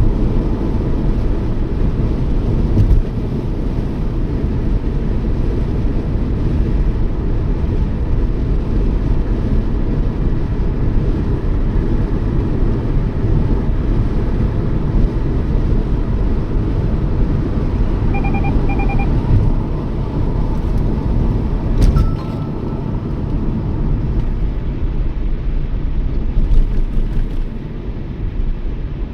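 Toyota Yaris driving at road speed: steady low road and engine rumble. About two-thirds of the way through, a short electronic chime of a few quick beeps sounds, and a brief click follows a few seconds later.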